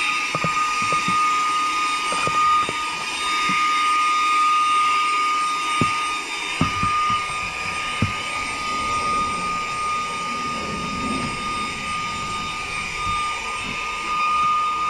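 Saker 3-in-1 cordless handheld vacuum with its brushless motor running steadily, a high whine over airflow hiss. The brush attachment brushes and taps against a car dashboard, making scattered light clicks.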